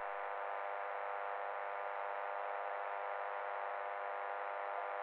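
A steady synthetic electronic buzz, thin and radio-like, holding one pitch and level throughout.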